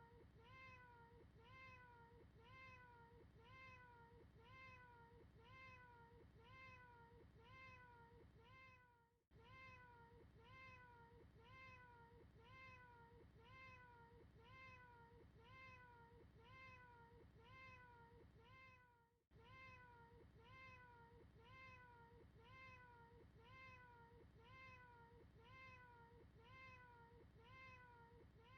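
A cat's meow looped over and over, about one and a half identical calls a second, each rising then falling in pitch. The repetition breaks with a brief gap about every ten seconds.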